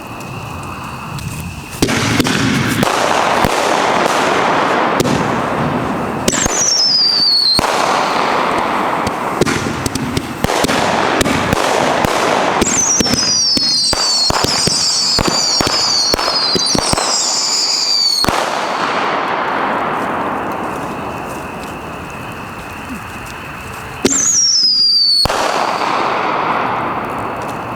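Homemade aerial ball shells going off one after another: long hissing rushes, a dense run of sharp pops and crackles in the middle, and several high whistles that fall in pitch.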